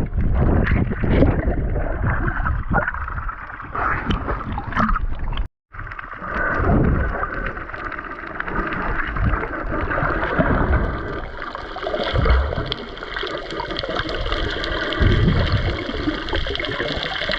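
Water sloshing and bubbling around a camera at or under the sea surface, with irregular low thumps and gurgles. The sound cuts out completely for a moment about five and a half seconds in, and a faint steady whine runs through the second half.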